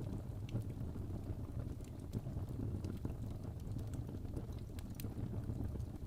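Fireplace fire burning: a steady low rumble with scattered, irregular sharp crackles and pops.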